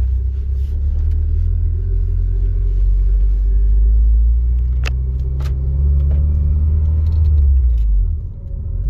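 Honda Civic Si's K20Z3 four-cylinder, freshly installed and fitted with an aftermarket intake, header and 3-inch exhaust, heard from inside the cabin pulling away: a deep exhaust drone whose pitch rises steadily, then drops off briefly near the end. Two short clicks about halfway through.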